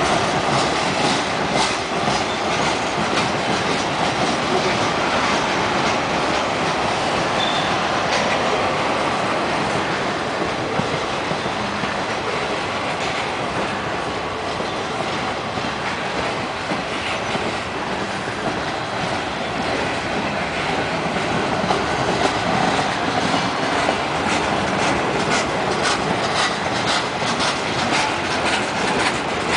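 Freight train's boxcars rolling past close by: a steady rumble of steel wheels on the rails, with runs of clickety-clack as the wheels cross rail joints near the start and again in the last few seconds.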